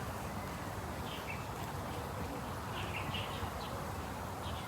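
Outdoor park ambience: a steady background hiss with scattered short, high bird chirps.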